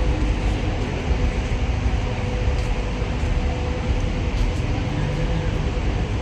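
Steady low outdoor rumble with a faint steady hum.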